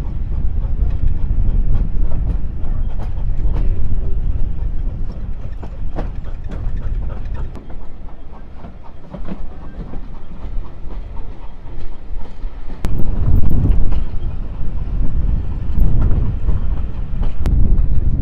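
Steam train running on the rails: a heavy low rumble with scattered clicks of the wheels on the track, growing louder about thirteen seconds in.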